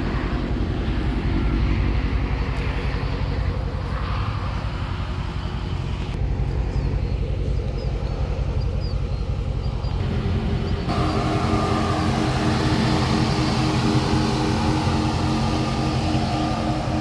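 A Dodge Charger Daytona 392's 6.4-litre HEMI V8 idling steadily. About ten seconds in, the sound gets fuller and brighter.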